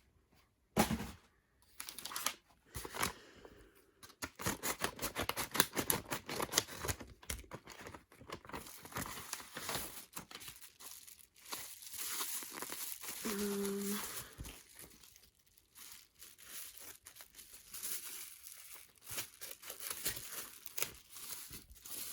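Plastic and paper packaging crinkling and tearing as it is handled and unwrapped, in dense irregular crackles, with a short hummed note about halfway through.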